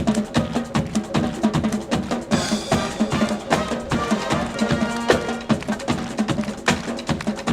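Band music: held brass-like chords over a busy, steady drum and percussion beat.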